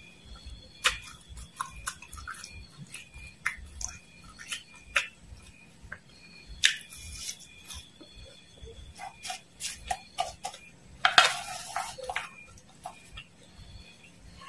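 Close-up crunching and chewing of fried dried worms and mole crickets: a string of short, crisp crunches. A longer, louder noisy sound comes about eleven seconds in.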